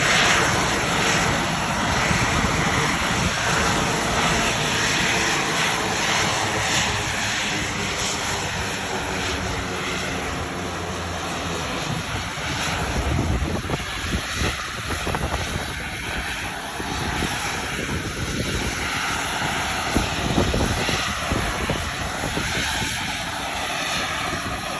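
Helicopter engine and rotor running close by: a loud, steady noise that eases slightly in level after the first few seconds.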